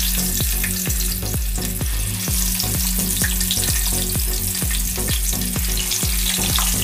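Chicken burger patties frying in hot oil in a nonstick pan: a steady sizzle with scattered small pops.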